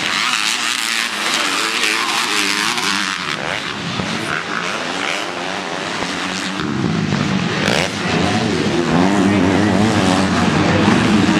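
Motocross bikes' engines revving on the track, several at once, rising and falling in pitch as riders open and close the throttle and shift. They get louder in the second half.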